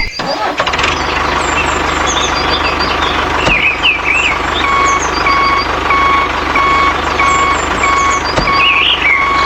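A vehicle's motor running steadily with a reversing-alarm beep repeating about twice a second, clearer from about halfway, and birds chirping over it.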